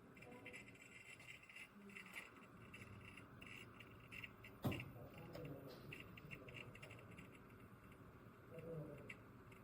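Near silence: faint room noise, with one sharp click about halfway through.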